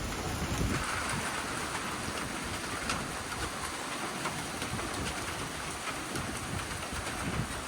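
Steady rain during a windstorm, with strong gusting wind rumbling unevenly on the microphone and a few sharp drop ticks.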